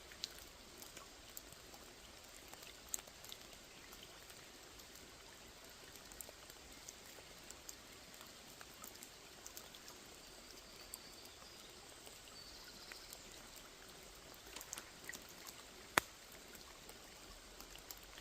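Light rain falling on a small pond: a steady soft patter with scattered individual drops ticking, one sharp drop much louder near the end.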